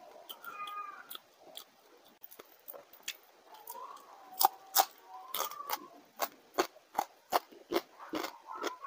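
Close-up chewing of crisp fried fish by hand-fed mouthfuls: sharp crunches and wet mouth smacks, about two to three a second, starting about three seconds in and continuing to the end.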